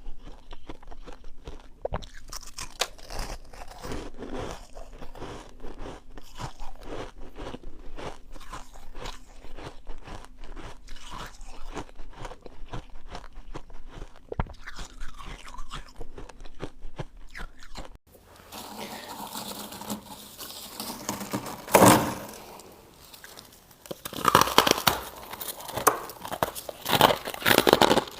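Freezer frost being chewed close to the microphone: a dense run of rapid, crisp crunches. About two-thirds of the way through, the sound changes abruptly to louder, separate bursts of crunching with quieter gaps between them.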